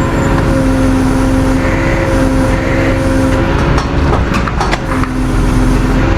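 Vehicle engine running at a steady speed, holding a constant hum, with a cluster of short clicks or knocks about four seconds in.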